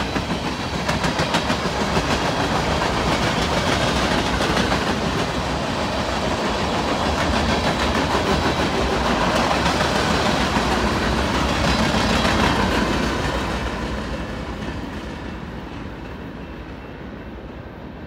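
Freight train cars (covered hoppers, then tank cars) rolling past, steel wheels clicking over the rail joints. The sound fades away from about thirteen seconds in as the end of the train goes by.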